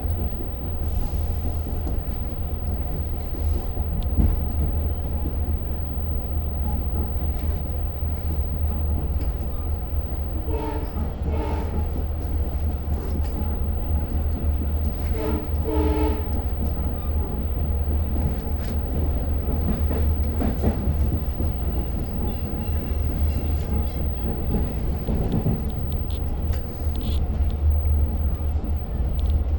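Long Island Rail Road train heard from inside the coach: a steady low rumble throughout, with the horn sounding two chords, about ten and fifteen seconds in.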